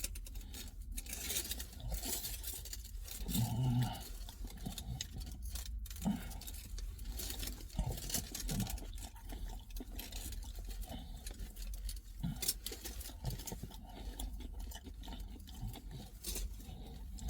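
Eating a pork doner kebab close to the microphone: irregular small crackles, clicks and rustles of chewing and handling the food, over a low steady hum.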